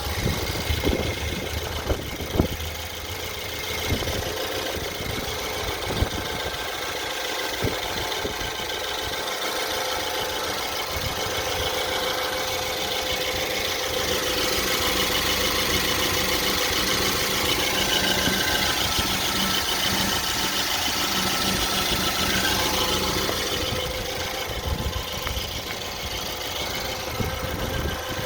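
BMW N43 four-cylinder petrol engine of a 318i running, with a few sharp knocks in the first several seconds, the intermittent engine knock being investigated. It runs louder for several seconds in the middle, then settles back.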